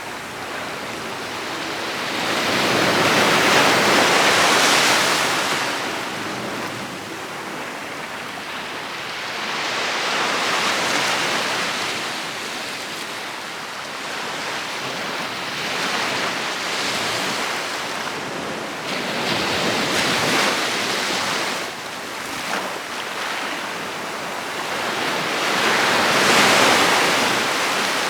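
Sea waves breaking and washing up a beach, the surf swelling and falling back about every five to six seconds, with the biggest breakers about four seconds in and near the end.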